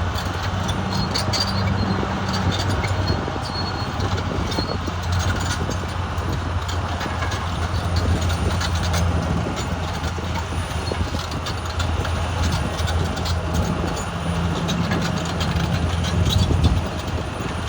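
Caterpillar D6R XL bulldozer's diesel engine running steadily under load, with a light clatter of clicks over the low drone.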